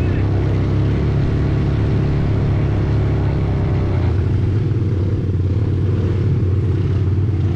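Quad bike engine running steadily in a low drone as the bike rides on; the higher rushing noise eases about four seconds in.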